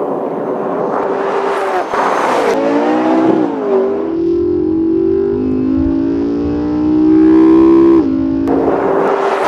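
A car engine accelerating hard. Its pitch climbs, drops suddenly about three and a half seconds in as it shifts up a gear, climbs again, and drops at a second shift about eight seconds in.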